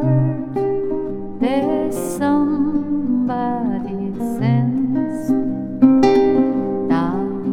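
Acoustic guitar fingerpicked in a gentle folk style, single plucked notes ringing out one after another over a low bass note that returns every few seconds.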